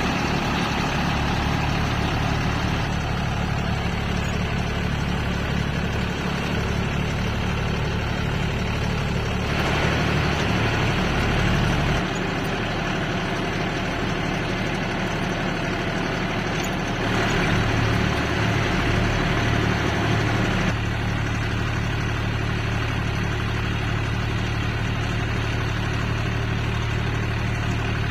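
Tractor diesel engine running steadily. It gets louder and busier twice, for a few seconds each time: first about ten seconds in, then again around seventeen to twenty seconds.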